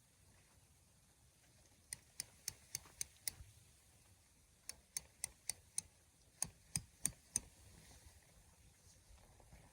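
Sharp, ringing taps in three quick runs of four to six, about four a second.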